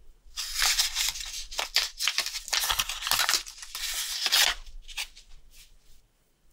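Quick, irregular rasping strokes of hand scraping or rubbing on a small part, stopping about six seconds in.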